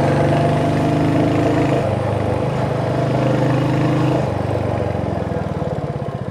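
Royal Enfield Hunter 350's single-cylinder engine pulling under acceleration to overtake, its pitch holding steady with a brief change about two seconds in. After about four seconds it eases off and gets quieter, settling into a slower, even thump of firing strokes.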